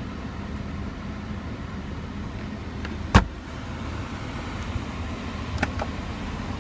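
A single sharp click of a lid or latch about halfway through, over a steady low hum in the car's cabin, with a couple of faint ticks near the end.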